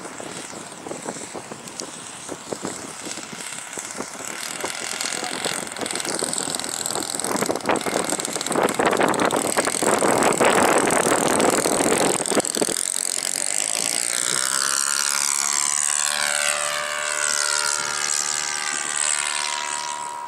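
RC trainer model airplane's motor and propeller buzzing in flight, with heavy wind buffeting on the microphone that is loudest in the middle. In the last several seconds the wind drops back and the motor's whine stands out, its pitch sliding as the plane passes.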